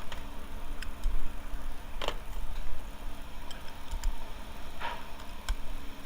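A few scattered light clicks and taps, about five over several seconds, over a steady low rumble.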